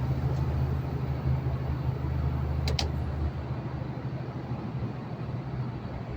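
Truck's diesel engine running steadily under road noise, heard inside the cab, with two quick sharp clicks close together about halfway through.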